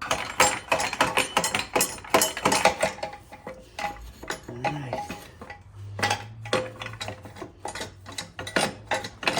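Metal tools and engine parts clinking and clattering in quick, irregular knocks while the top end of a Suzuki LTZ 400 engine is taken apart. A low steady hum sets in about six seconds in.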